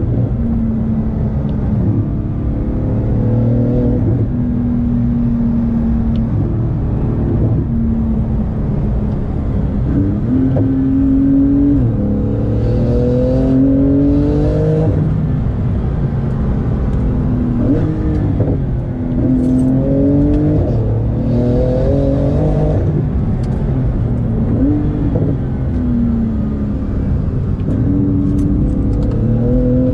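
Porsche 911 GT2 RS's twin-turbocharged flat-six heard from inside the cabin, driven hard through the gears: the engine note climbs in pitch under acceleration and drops at each gear change or falls away as it eases off, over and over.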